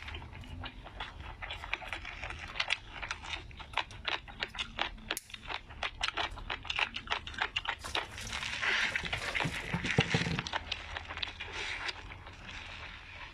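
A person chewing food close to the microphone: a dense run of quick crisp clicks and crunches, louder for a couple of seconds past the middle.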